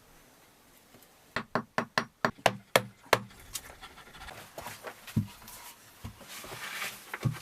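A run of about eight sharp knocks over two seconds, then quieter breathy, hissing sounds with a few softer knocks.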